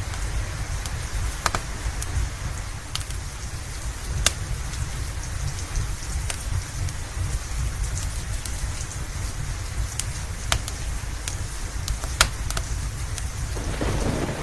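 Steady rain hissing over a low continuous rumble, with the sharp pops and crackles of a wood fire scattered irregularly through it.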